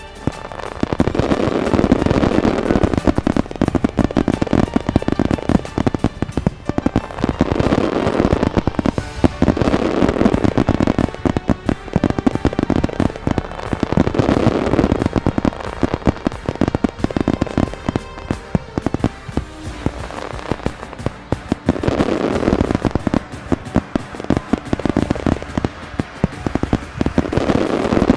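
Fireworks display going off continuously: rapid bangs and crackling that swell into dense volleys every several seconds, with music playing underneath.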